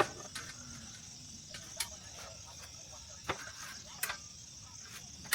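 Crickets chirring steadily in a high, even trill, with a few sharp clicks or knocks scattered over it, the loudest at the very start.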